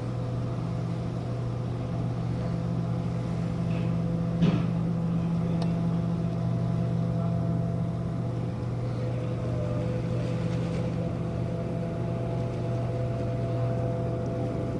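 Steady low hum of a ship's machinery, a few even tones held without change, with a single short knock about four and a half seconds in.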